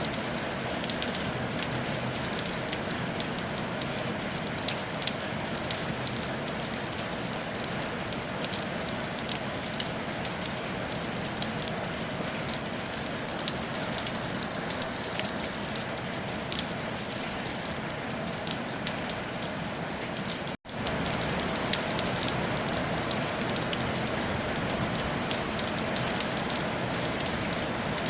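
Steady rain falling on a tile roof: an even hiss with scattered ticks of individual drops. About two-thirds of the way through it cuts out for an instant and comes back slightly louder.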